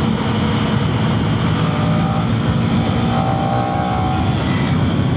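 KTM Duke 250's single-cylinder engine running under way, heard from inside the rider's helmet over a steady rush of wind noise, the engine note rising a little in the middle.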